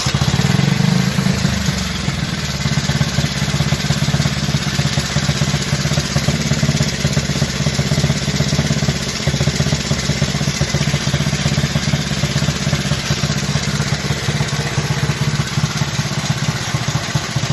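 Motorcycle engine, just restored, running steadily at a fast, even idle after cutting in abruptly, slightly louder in the first second.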